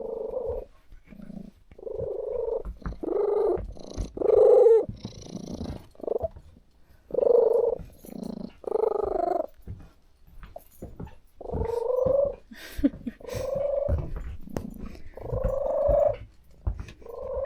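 A cat meowing over and over: a dozen or so short calls, each under a second, with brief pauses between them.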